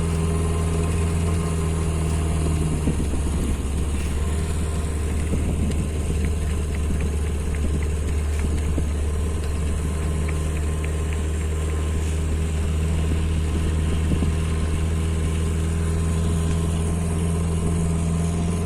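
A boat engine running at a steady speed, giving a constant low drone.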